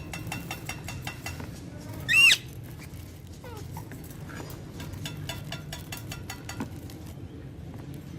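Alexandrine parakeet giving one short, loud screech about two seconds in. Stretches of rapid light clicking come before and after it.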